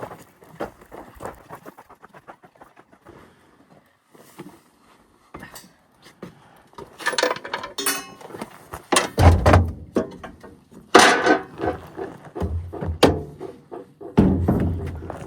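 Knocks and heavy thuds of filled oil containers being handled and set down. There are a few faint clicks at first, then several loud clunks in the second half.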